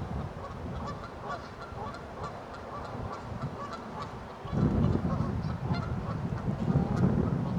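A flock of Canada geese honking, many short calls overlapping. About halfway through, wind starts buffeting the microphone with a low rumble.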